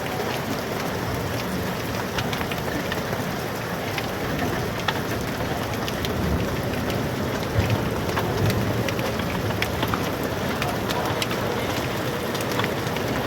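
Steady heavy rain with many sharp ticks of hailstones striking hard surfaces.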